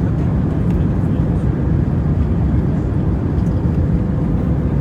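Airbus A321neo cabin noise: a steady low rumble of engines and airflow with a faint steady hum.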